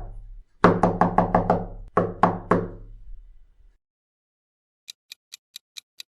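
Knuckles knocking on a door in quick groups: a run of about five knocks, then three, each ringing briefly. From about five seconds in, a light, steady ticking at about four ticks a second.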